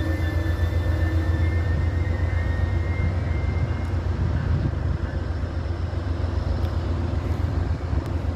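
Amtrak bilevel passenger train pulling slowly into the station: a steady low rumble of the cars on the rails, with a thin high squeal that fades out about three seconds in.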